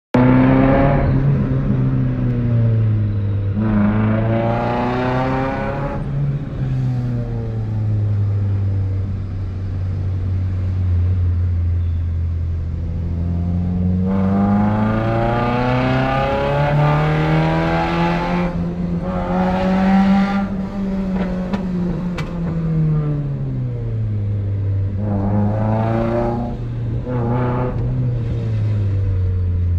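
Honda City engine and exhaust, revved up and down several times: a short rev about four seconds in, a long slow climb in pitch that peaks about twenty seconds in and falls back, and another rev near the end.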